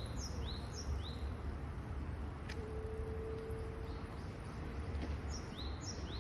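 A songbird giving short, quick chirps, each sliding up then down, in a run of three near the start and again twice near the end, over a steady low background rumble. A faint steady hum sounds for a couple of seconds in the middle.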